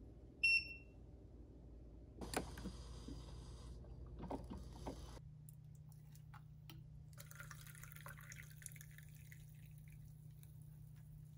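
A short electronic beep about half a second in. Then liquid is poured into a ceramic mug, first creamer from a plastic bottle with some handling clicks, then coffee from a carafe. The coffee pour rises in pitch as the mug fills, over a steady low hum.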